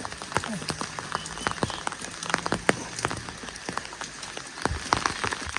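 Heavy rain falling, with many separate drops striking close by in quick, irregular clicks over a steady hiss.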